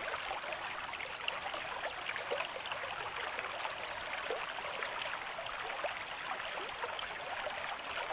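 Stream of water flowing: a steady rush with many small quick bubbling splashes throughout.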